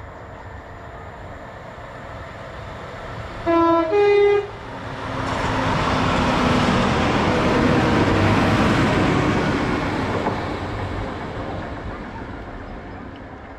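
Northern Class 195 diesel multiple unit sounding a two-tone horn, a low note then a higher one, about three and a half seconds in, then passing through. The train's noise swells, peaks about eight seconds in, and fades away.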